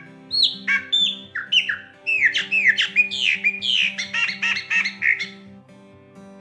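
Chopi blackbird (graúna) singing a fast run of loud, clear whistled notes that each fall in pitch, crowding closer together in the middle and stopping about five and a half seconds in. Soft background music with a steady beat plays underneath.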